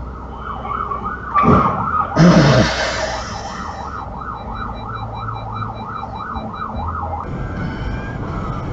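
An emergency vehicle's siren in a fast yelp, its pitch rising and falling about three times a second. It is broken early on by two loud bursts of noise, the second longer.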